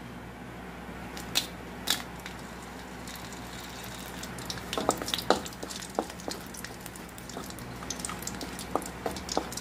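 Dried red chillies frying in a little oil in a kadai, with irregular small crackles and clicks, joined by a wooden spatula scraping and tapping the pan. Two sharp ticks come about a second and a half in, before the crackling.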